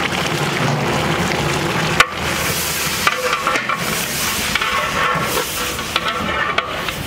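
Bulk chicken pieces sizzling in oil and masala in a large metal cooking pot, stirred and turned with a long-handled metal spatula. A single sharp click about two seconds in.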